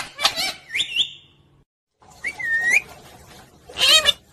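Pet parrot chirping and whistling: a quick run of short calls ending in a rising whistle in the first second, a brief break, then a dipping-and-rising whistle and a louder call near the end.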